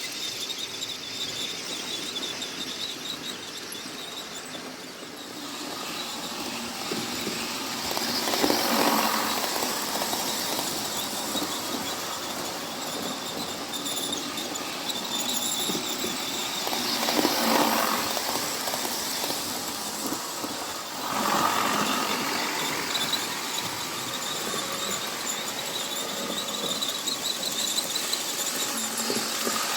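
OO gauge model trains running on the layout: a steady whirr of motors and wheels on the rails, with a thin high tone throughout. It swells louder a few times as a train comes close.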